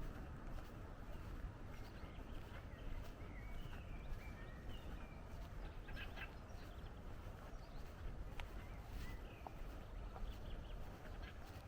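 Small birds giving scattered short chirps over a steady low outdoor rumble.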